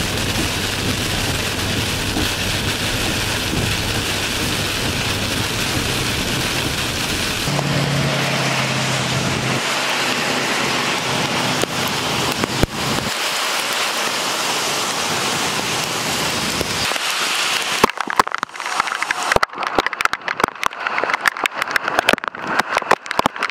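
Heavy thunderstorm downpour hissing steadily on a wet highway with traffic. For the first several seconds a low steady vehicle hum runs beneath the rain; from about two-thirds of the way through, rapid irregular crackling pops join it.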